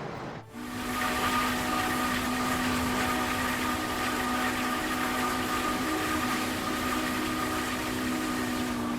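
A machine running steadily, a droning hum with a whine held at one pitch, which starts abruptly about half a second in.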